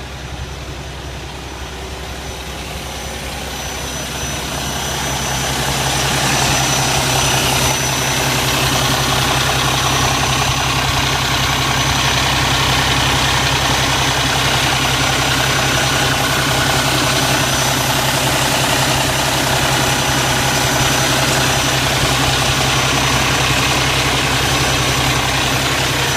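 Cummins ISX inline-six diesel engine in a Kenworth T660 highway tractor idling steadily. It grows louder over the first several seconds, then holds level.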